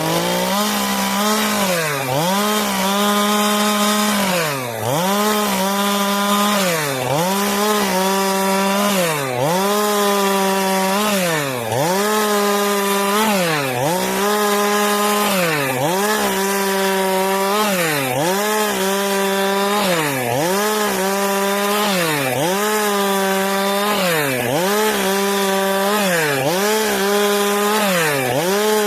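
Stihl MS 462 two-stroke chainsaw running at full throttle while cutting eucalyptus boards. Its engine note dips and recovers about once every two seconds as the chain loads up in the wood.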